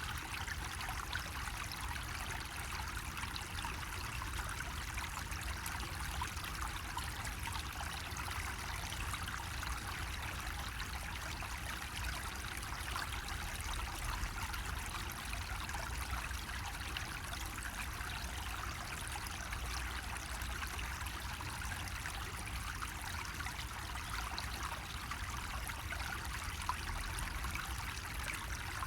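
Water running from a bamboo spout, a steady, unbroken trickle and pour of falling water, with a low rumble underneath.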